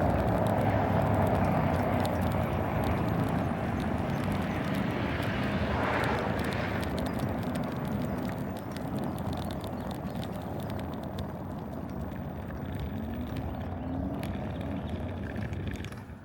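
Mini bike engine running steadily while riding, with wind and tyre noise. The sound slowly fades, then drops off sharply near the end.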